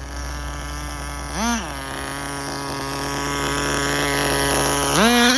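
Small nitro glow engine of a Tamiya TGS-R RC car, with a short throttle blip about a second and a half in, a steady run, then revving up sharply near the end. It is running on a rich needle setting that the owner finds too rich and slow, and he suspects a bad carburetor.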